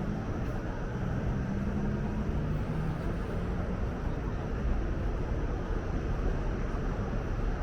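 Steady low rumble of city background noise, with a faint low hum in the first few seconds.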